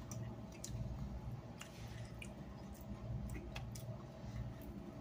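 A person chewing food close to the microphone, with scattered small clicks and mouth sounds over a low steady hum.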